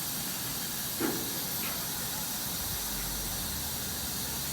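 Steady hiss of escaping steam from a steam locomotive, with a single brief knock about a second in.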